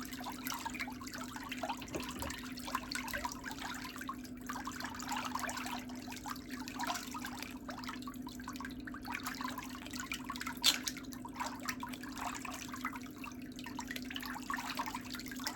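Steady trickling water full of small crackles, over a constant low hum, with one sharp click about ten and a half seconds in.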